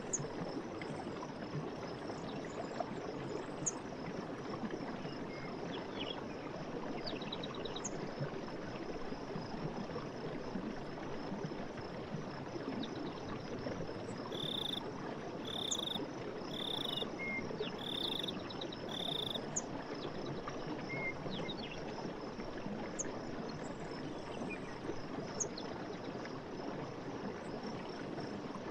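Night forest ambience: running stream water under a steady, high-pitched insect chorus, with scattered small chirps and clicks. Near the middle, a frog calls five times, about once a second.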